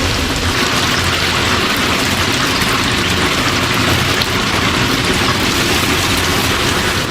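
Chicken deep-frying in a vat of hot oil: a loud, steady sizzle with scattered small crackles.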